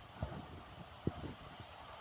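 Heavy rain falling as a steady hiss, with wind buffeting the microphone and a couple of short low thumps.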